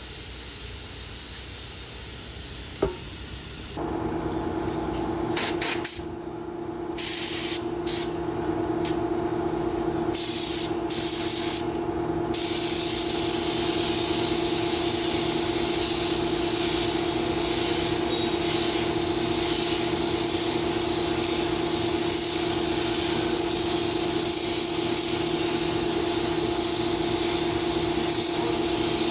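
Compressed-air paint spray gun hissing: a few short bursts of about a second each, then continuous spraying from a little before halfway. A steady machine hum runs underneath from a few seconds in.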